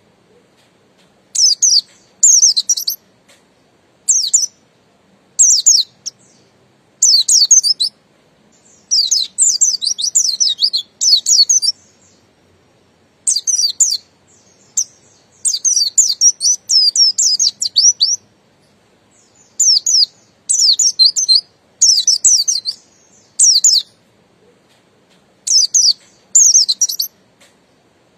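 Pleci buxtoni white-eye singing: bursts of rapid, high, twittering phrases, each lasting about a half-second to two seconds, repeated with short pauses between them.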